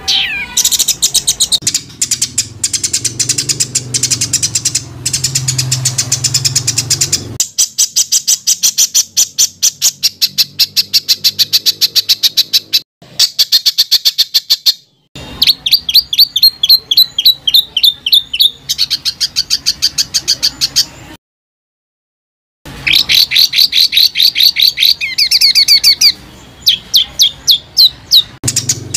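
Songbird calling in fast, harsh repeated notes, the rapid 'tembakan' bursts of a masteran tutor recording. Long trains of sharp chips with brief breaks, and one total silence of about a second and a half near three-quarters through.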